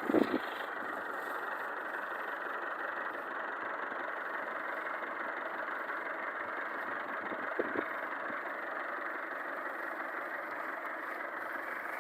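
Tractor engine running steadily, with two short knocks, one right at the start and one about seven and a half seconds in.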